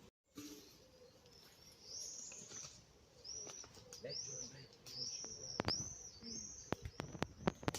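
A small songbird singing a series of high, arched chirps, repeated about twice a second. A few sharp clicks come in near the end.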